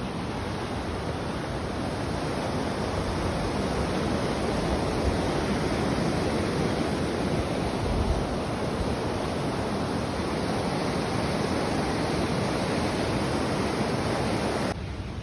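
Waterfall: rushing, splashing water as a steady roar of noise. The level drops suddenly shortly before the end.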